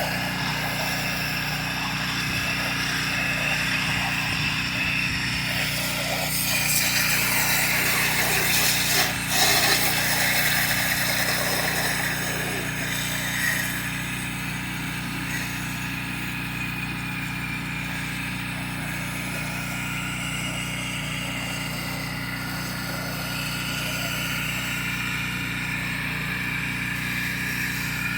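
Pressure washer engine running steadily under load, with the hiss of its high-pressure water spray rising and falling over it, loudest a few seconds in.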